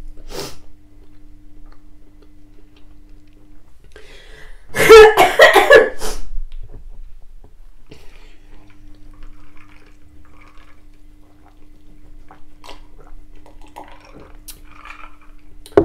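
Close-miked eating sounds: soft chewing and mouth clicks while chips are eaten, with one loud burst about five seconds in, and gulps of a drink near the end.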